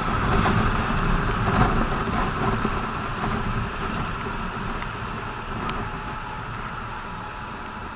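BMW R 1200 GS boxer-twin motorcycle riding on a wet road: engine rumble mixed with a steady rush of wind and tyre noise, growing gradually quieter through the second half as the bike slows.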